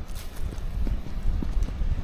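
Footsteps of a walker on a woodland path: irregular knocks a few times a second over a low rumble.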